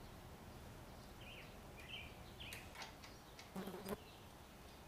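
Quiet garage room tone with a few faint bird chirps, some light clicks, and a brief clatter of handled metal parts about three and a half seconds in.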